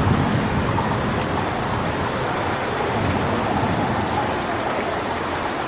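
Strong wind rushing through coconut palm fronds as a steady noise, with a low gusty rumble that eases about a second in.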